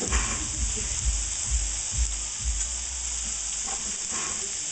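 Prosciutto-wrapped shrimp and tuna frying with celery and onion in a nonstick skillet, a steady sizzle.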